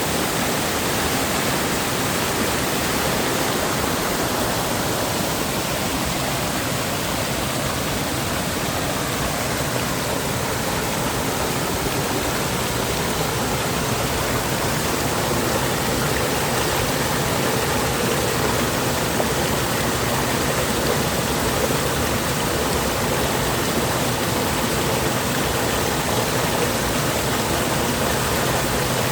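Mountain stream water rushing steadily over rocks in a valley, an even, unbroken rush.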